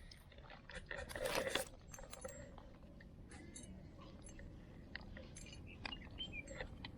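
Faint scattered clicks and small handling noises, with a louder rustling stretch about a second in.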